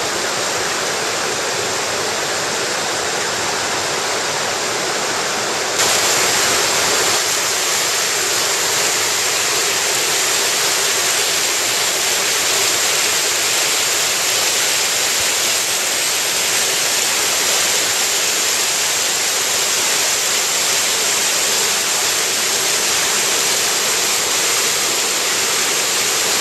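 Waterfall on a mountain headwater stream: a steady, loud rush of falling water that gets suddenly louder about six seconds in.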